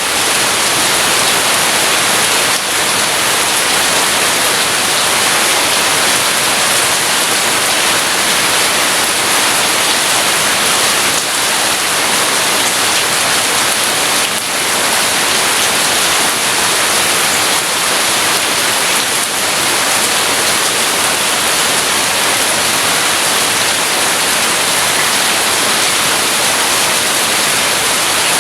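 Heavy rain falling steadily, a dense, even hiss with no thunder heard.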